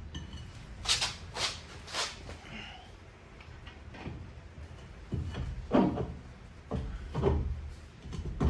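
Hand tool work on the car: three sharp knocks about a second in, then a few longer, heavier clunks and scrapes near the end.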